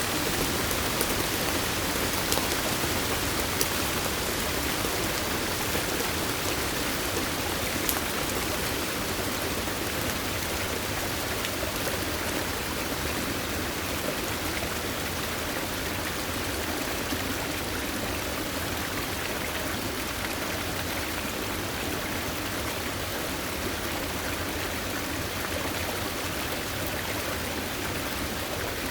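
Steady rush of flowing stream water, with a few sharp drip-like ticks in the first several seconds.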